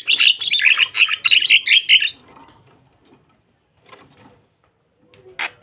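Starling (jalak) calling: a rapid run of loud, sharp chirps for about two seconds, then a pause, with a new burst of calls starting near the end.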